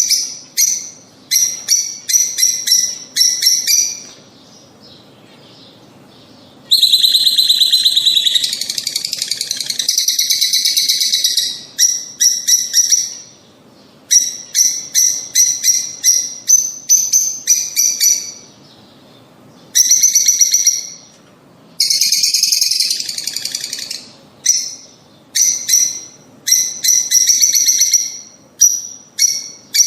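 Lovebirds calling: runs of rapid, shrill chirps broken by short pauses, with two longer stretches of dense, continuous trilling chatter.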